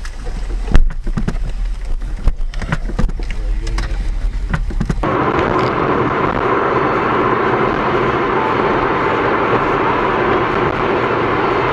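Dashcam audio of a car: a few sharp knocks over a low hum, the loudest about a second in, then, after an abrupt change, the steady noise of a car driving.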